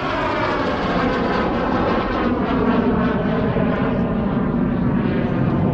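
Display airplane flying low overhead: steady engine noise, its pitch slowly falling as it passes.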